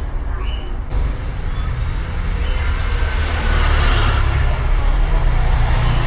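Road traffic: a steady low rumble with the noise of a passing vehicle swelling to its loudest about four seconds in.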